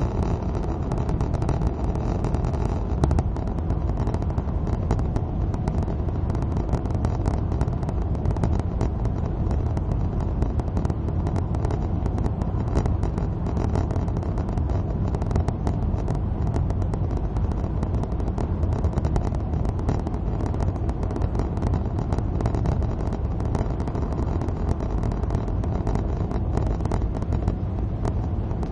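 Suzuki Swift driving at motorway speed in the rain: steady engine and tyre noise on wet road, with a dense fine ticking of raindrops.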